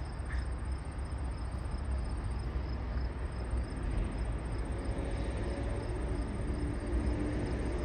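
Outdoor trackside ambience: a steady low rumble with a faint, evenly repeating high chirp of insects.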